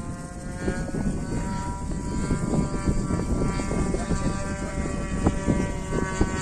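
The single-cylinder two-stroke petrol engine and propeller of a 60-size RC Zero warbird (DLE 20cc) are running in flight. It makes a steady buzz whose pitch drifts a little up and down. Wind rumbles on the microphone underneath.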